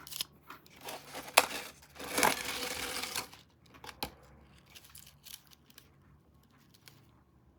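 Snack packaging being handled, crinkling and tearing. There are sharp clicks about a second in, then a louder rustling tear lasting about a second, then lighter crinkles and ticks that fade out.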